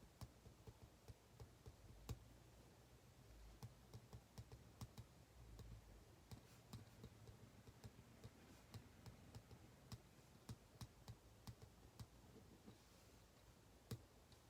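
Faint, irregular clicks and small taps of a ballpoint pen at work on paper at a desk, several a second, over quiet room tone.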